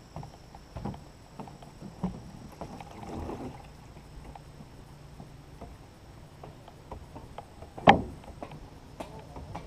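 Scattered knocks and clunks of paddles against a canoe hull as the boat is handled, with one loud knock about eight seconds in.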